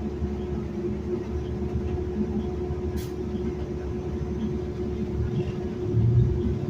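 Cabin sound of a city bus under way: a steady low engine and road rumble with a steady hum, a single sharp click about three seconds in, and the rumble swelling louder near the end.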